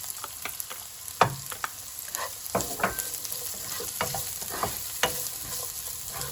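Thinly sliced onion frying in hot sesame oil in a wok on high heat: a steady sizzle with irregular clicks and scrapes of stirring against the wok, the sharpest knock about a second in.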